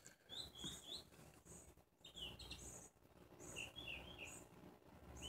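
Faint bird chirping: short high notes in several small clusters.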